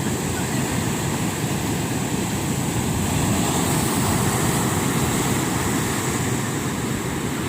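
Sea surf breaking and washing onto a sandy shore: a steady rush that swells slightly midway.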